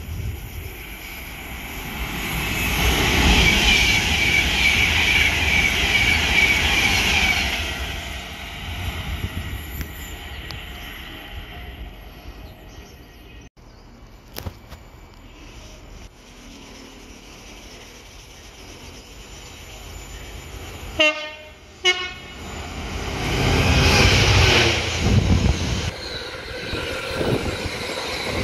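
Trains passing at speed on the main line, a loud rushing run of wheels on track that swells and fades twice. A train horn sounds.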